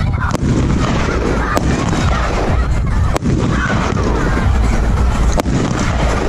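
A 20-shot air bomb firework cake firing: a sharp bang every one to two seconds over a steady background of crowd and music.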